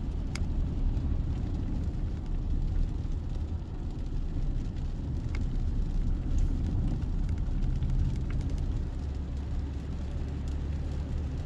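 Mazda CX-60's 3.3-litre inline-six diesel engine running at idle, a steady low rumble.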